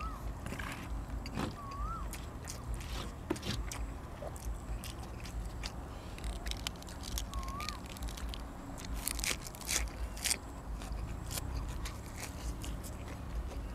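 A person chewing and crunching food, with irregular wet clicks and crackles from the mouth.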